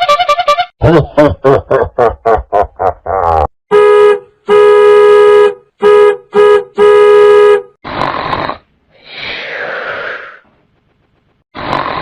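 A run of separate comedy sound effects: a quick series of springy sweeping tones that speed up, then a horn-like tone honked in five short and long blasts, then rough, noisy grunt-like bursts.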